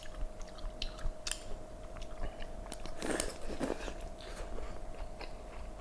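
Close-up wet chewing and lip-smacking of a mouthful of braised pork belly, with many small sharp mouth clicks, a little louder about three seconds in. A faint steady hum runs underneath.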